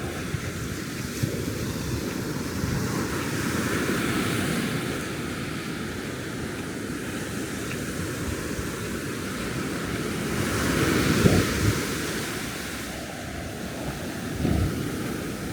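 Ocean surf breaking and washing up a sandy beach, swelling louder about four seconds in and again about eleven seconds in, with wind buffeting the microphone.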